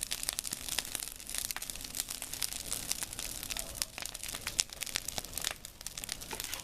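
Large fire of burning hedge crackling hard: a dense, fast run of sharp snaps and pops over a steady hiss, with one louder pop a little past halfway.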